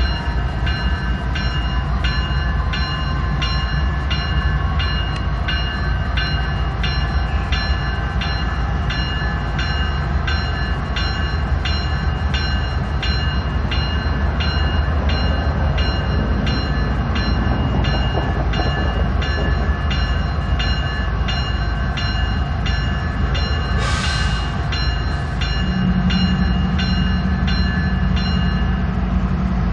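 GE ES44DC diesel locomotive at the head of a slow-moving freight train: a steady low engine rumble, with a bell ringing evenly about twice a second. Near the end there is a short hiss, and then the engine note rises to a steadier, higher hum.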